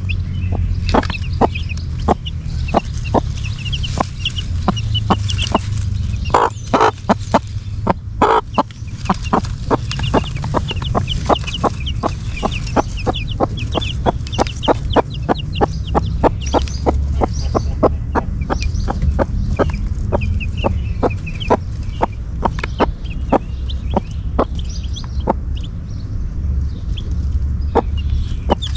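Mother hen clucking steadily, about two short clucks a second, with her newly hatched chicks peeping.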